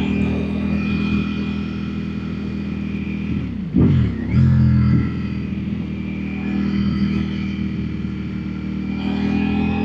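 Naked superbike engine running under way at a steady pace. About four seconds in the revs drop sharply and climb again, as at a gear change, and the engine is loudest just after.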